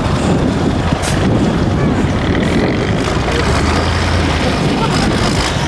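Unimog 4x4 truck's engine running as it drives off-road: a steady low engine note that grows stronger for about a second and a half in the middle.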